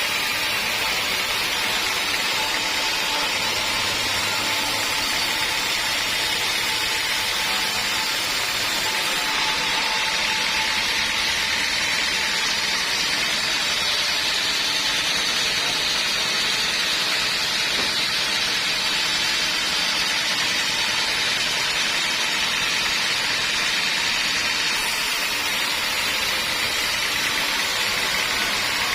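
Homemade band sawmill running steadily: a continuous, even machine noise with a hissing high band and one steady tone through it, with no breaks or impacts.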